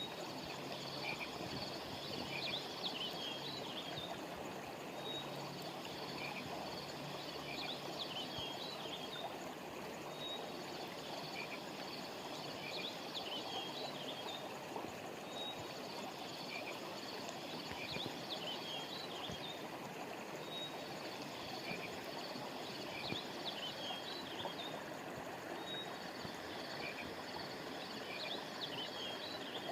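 Flowing river water, steady throughout, with high chirping calls that repeat in the same pattern about every five seconds.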